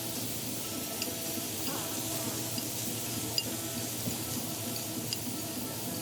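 Steady dining-room background noise with a few light clinks of dishes and cutlery.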